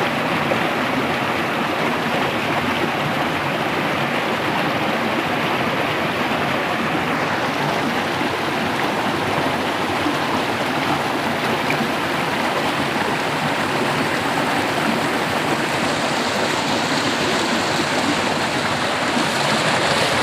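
Fast-flowing mountain water rushing, a steady loud noise.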